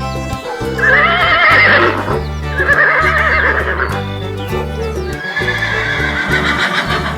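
Horse neighing three times, wavering calls with the first the loudest, over background music with a steady bass line.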